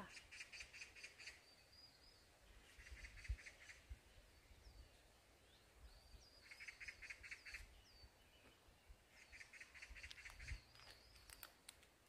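Faint birdsong: short, fast trills repeated about every three seconds, with thin whistled notes in between.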